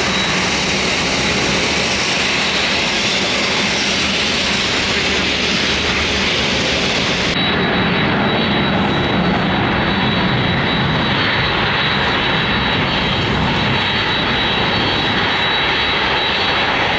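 Airliner engines running loud and steady close by, with a thin high whine over the rush. About seven seconds in, the highest hiss drops away abruptly while the engine sound carries on.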